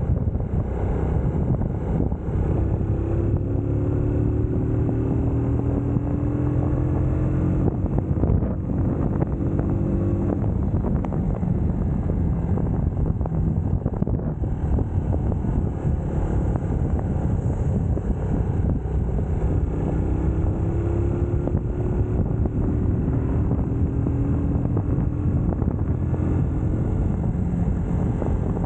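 UM Scrambler X motorcycle engine running under way, with wind buffeting the microphone. The engine note rises as the bike accelerates, once in the first third and again past the middle.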